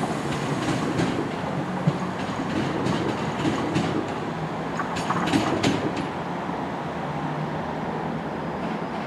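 Diesel multiple-unit train pulling away, its engine running steadily under the noise of the wheels, with a quick run of wheel clicks over rail joints about five seconds in.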